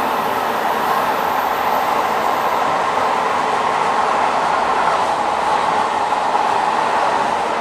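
A moving train running at a steady level: continuous noise of the wheels on the rails, without distinct beats or breaks.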